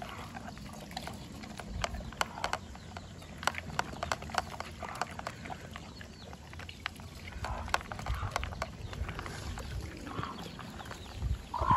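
Farm animals close by: a run of irregular sharp clicks and snaps, with a louder burst near the end.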